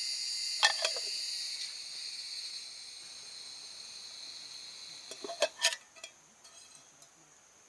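Insects chirring in a steady, high-pitched chorus that fades away over the first few seconds, with a few sharp clicks or knocks near the start and a short cluster of them about five seconds in.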